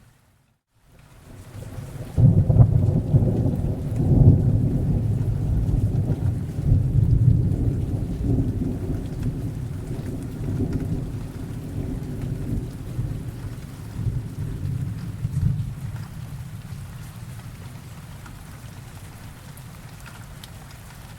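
Rain falling steadily, with a long rolling peal of thunder that swells about two seconds in, peaks several times and slowly dies away over some fifteen seconds. The very start is a brief moment of silence.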